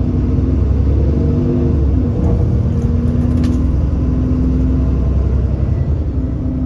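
Alexander Dennis Enviro400 Trident double-decker bus's diesel engine running under way, a steady rumble with engine tones that shift in pitch. There is a brief sharp click about three and a half seconds in.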